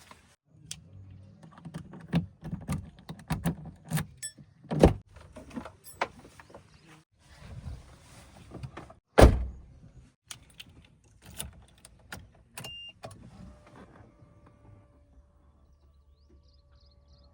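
JCB 3DX backhoe loader at work: its diesel engine drones low under a run of metal clanks and knocks. Two much louder bangs come about five and nine seconds in. Near the end the clatter dies away, leaving the engine and a faint steady tone.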